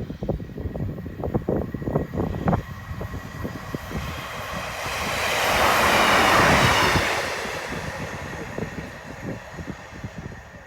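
Train passing the level crossing at speed: a rush of wheel and air noise that swells to a peak about six seconds in and then fades away, with wind buffeting the microphone throughout.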